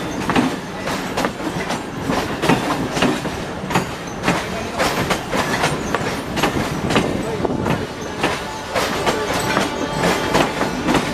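Passenger train running, its wheels clattering over rail joints in a steady stream of irregular clicks.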